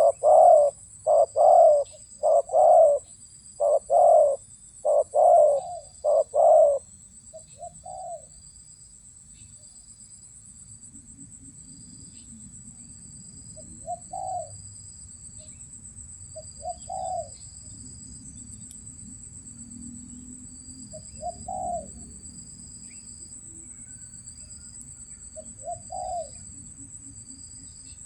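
Spotted dove cooing: a run of about nine loud, evenly spaced coos, then after a pause only fainter single coos every few seconds. A steady high insect drone and short insect chirps run underneath.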